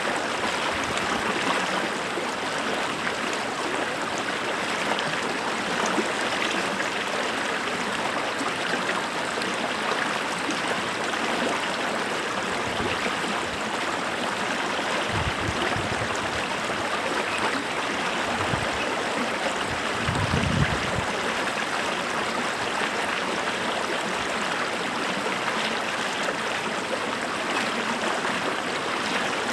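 A creek running over rocks, a steady rush of flowing water, with a few brief low bumps in the middle of the stretch.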